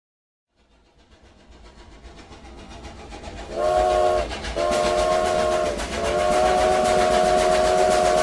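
A train approaching, its rumble and clatter growing steadily louder, then three blasts of a multi-note train whistle: a short one, a longer one, and a long final one.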